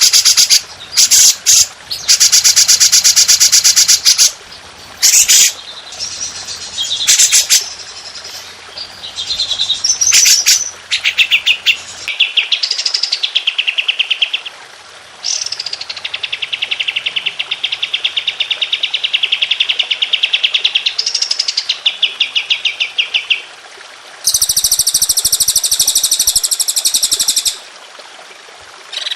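Recorded songbird 'tembakan' song for cage-bird training: loud, rapid high-pitched trills and chattering phrases one after another. Near the middle comes a long steady trill that opens with a rising sweep, and near the end a very loud buzzy trill.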